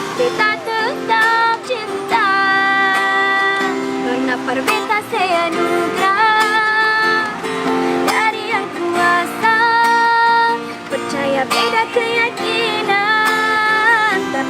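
A woman singing long held notes with vibrato over a steady instrumental backing.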